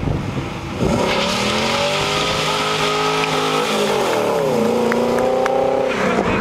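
C5 Chevrolet Corvette's V8 accelerating hard past at full throttle, its engine note climbing steadily, dipping briefly about four and a half seconds in, then climbing again.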